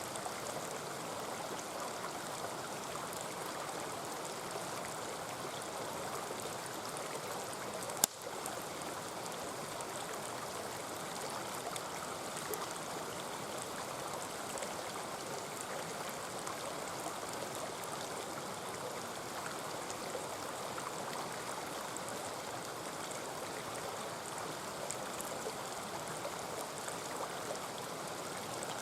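Mountain stream rushing and babbling steadily, with the faint crackle of a campfire ticking over it. One sharp click about eight seconds in.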